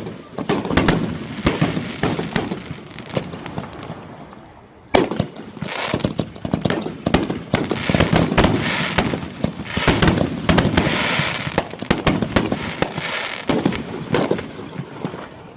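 Fireworks display: a rapid series of bangs and crackling that dies down briefly, then resumes with a sharp bang about five seconds in and a dense barrage of bangs and crackle.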